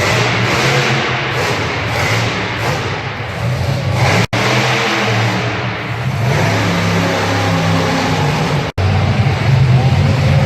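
Monster truck engine revving hard, loud and continuous, with the revs rising and falling. The sound drops out abruptly twice for an instant.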